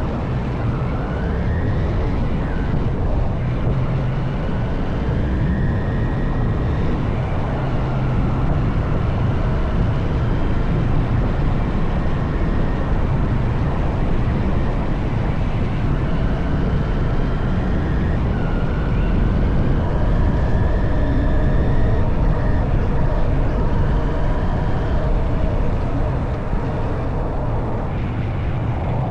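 Honda CB190R single-cylinder motorcycle engine running while being ridden, its revs rising and falling several times.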